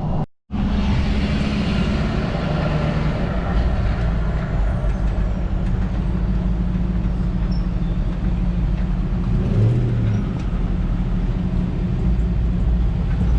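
Pickup truck engines idling, a steady low rumble, which drops out briefly just after the start.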